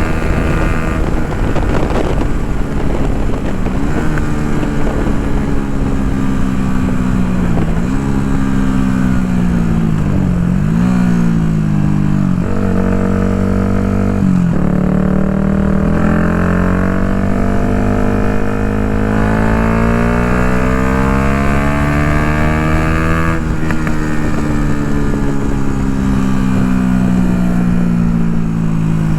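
2016 Yamaha MT-125's single-cylinder four-stroke engine through an Akrapovič full exhaust, ridden under way: the engine note drops and jumps back several times in the first half as gears change, then rises steadily for about nine seconds and falls away near the end as the bike slows.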